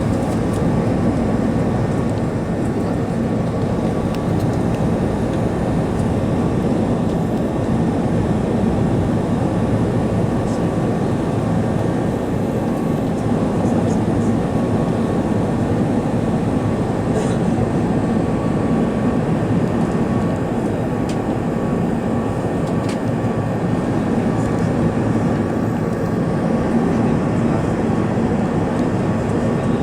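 Steady roar inside the cabin of an Airbus A380 in flight: airflow and engine noise, unchanging throughout, with a faint steady hum.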